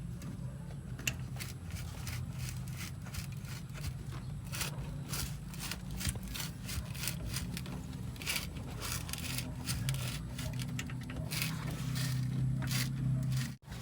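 Scattered clicks and scrapes of hands and tools working on a car's fuel line, over a steady low hum.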